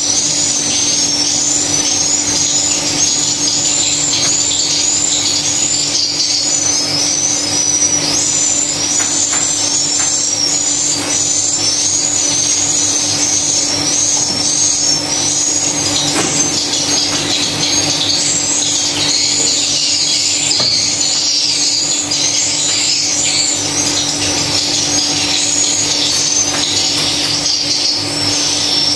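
Swiftlets twittering continuously: a dense stream of short, high chirps, over a steady low hum.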